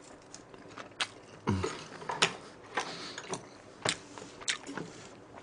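Close-miked chewing of a mouthful of Paldo bibimmyeon noodles, with soft wet mouth clicks and smacks about twice a second.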